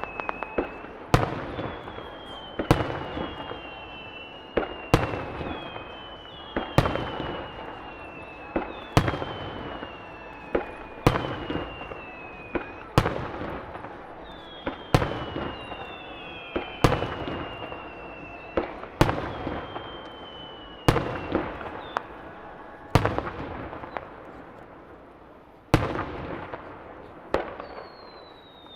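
Aerial firework shells bursting about once a second, with high whistles that slide down in pitch and a crackling haze between the bangs. A brief lull comes just before one loud bang near the end.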